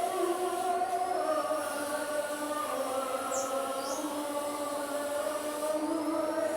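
Chanted singing: voices hold long notes that step from one pitch to another.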